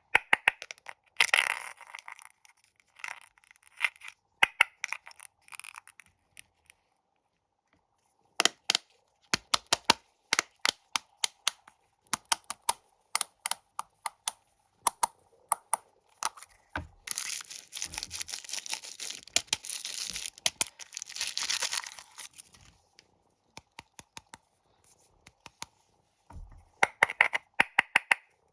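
Plastic snack wrappers being handled, crinkled and torn open, with many sharp clicks and taps in between, and a longer stretch of steady crinkling in the second half.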